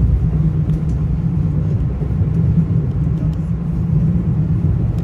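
Commuter train rumbling steadily as it runs, heard from inside the coach, with a few faint ticks over the low, even noise.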